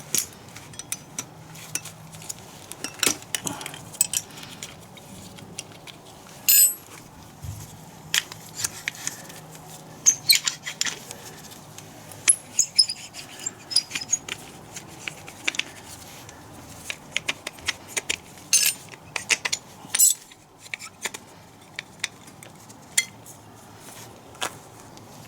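Metal hand tools and small metal parts clinking, clicking and tapping irregularly, with a few louder clanks, during hands-on repair work.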